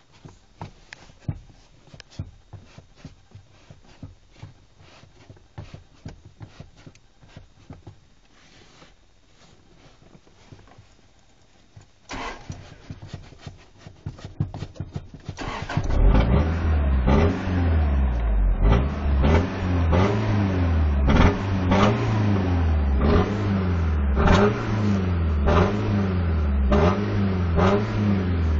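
A Toyota Tacoma pickup's engine is cranked about twelve seconds in and catches a few seconds later. It is then revved hard over and over, its pitch climbing and falling about once a second. Before the start there are only faint clicks and taps.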